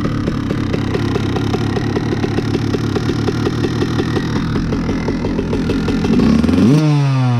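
Honda CR125 two-stroke dirt bike engine ticking over at low revs with an even popping beat, then revved sharply near the end, the pitch shooting up and starting to fall away.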